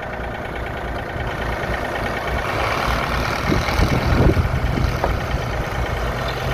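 Komatsu mini excavator's diesel engine running while its steel track is driven slowly, with a few knocks from the track as it is guided back onto the undercarriage. A low steady hum joins about four seconds in.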